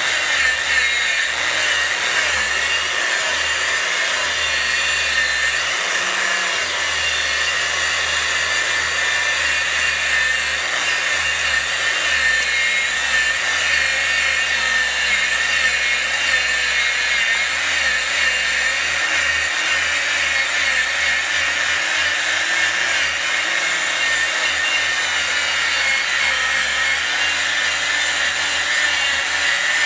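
Harbor Freight 11-amp angle grinder running steadily under load, grinding Rustoleum Deck Restore coating off wooden deck boards.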